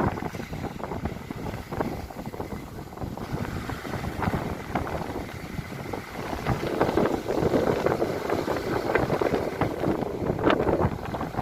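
Strong coastal wind buffeting the microphone in gusts, a low rumble with crackling hits, heavier from about six seconds in.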